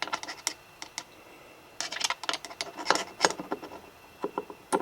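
Bursts of small, quick clicks and rattles of hand tools on metal and plastic as a tap is set and started by hand in a PVC cylinder: a short run at the start, a longer run in the middle and a few clicks near the end.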